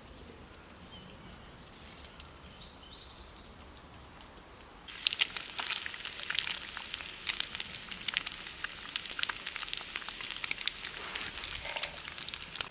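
Campfire cooking sounds: dense sputtering and crackling that starts suddenly about five seconds in, typical of food frying in a pan over the fire. Before it, only a quiet background with a few faint high chirps.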